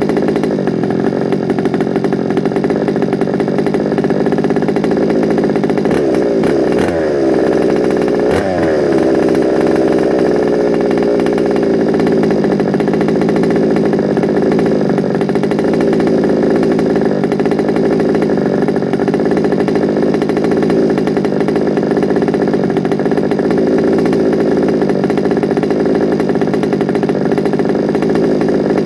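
Small two-stroke petrol engine of a large-scale FG Sportsline RC car running steadily on its first start-up, with the pitch swinging up and down twice about seven to nine seconds in.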